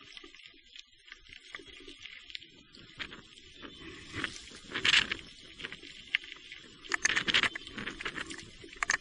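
Electric mountain bike being ridden over a wet, rough trail: irregular crunches and rattles of tyres and frame, loudest about five seconds in and again around seven seconds, over a steady faint high hum.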